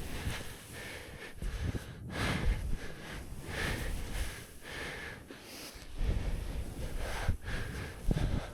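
A snowboarder's heavy breathing close to the microphone, in a run of quick breaths, one or two a second, while riding deep powder.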